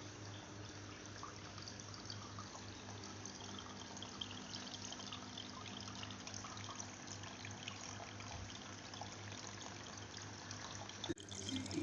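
Small tabletop waterfall fountain trickling and splashing steadily, over a steady low hum. The sound changes abruptly near the end to a louder, fuller water sound.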